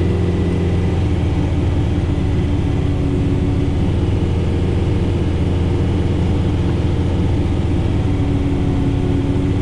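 John Deere 4066R tractor's four-cylinder diesel engine running steadily under load, driving a PTO-powered Frontier SB1174 three-point snowblower through heavy, wet snow. It is heard from inside the tractor cab as a constant low hum.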